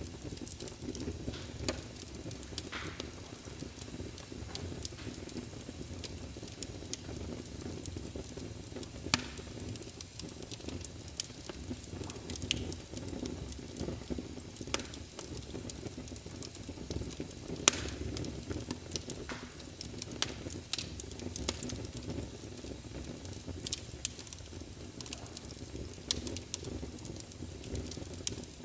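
Wood fire in a fireplace crackling, with frequent sharp pops scattered irregularly over a steady low rumble of burning.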